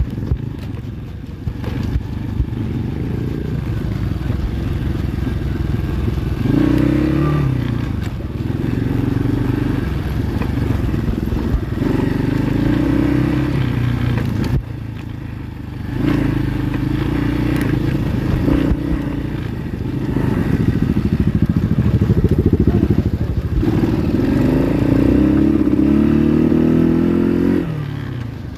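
Pit bike's single-cylinder four-stroke engine being ridden, its note climbing again and again as the rider accelerates and shifts. The revs drop away briefly about halfway through, then pick up again.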